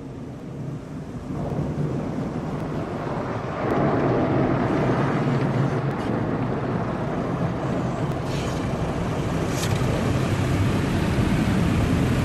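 Car wash dryer blowers rushing air over the car, heard from inside the cabin. The noise gets louder in two steps, about one and three and a half seconds in, and then stays loud.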